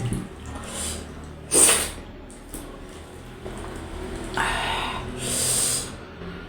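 Close-miked eating sounds from a person eating dhido and meat: a few short breathy bursts of sniffing and sucking, the loudest a little under two seconds in and a longer one about five seconds in, over a low steady hum.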